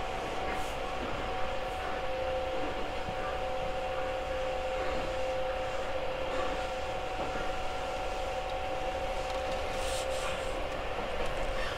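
Sound inside a Tobu 6050 series electric train car: a steady hum with two held tones over continuous wheel and track noise.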